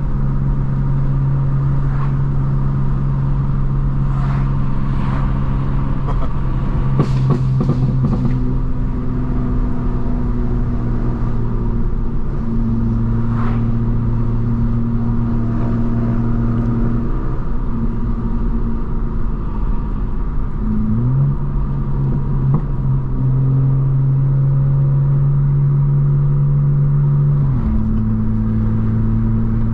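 Straight-piped BMW M4 Competition's twin-turbo inline-six exhaust cruising at low speed, a steady low drone that steps up and down in pitch several times as the speed and gear change.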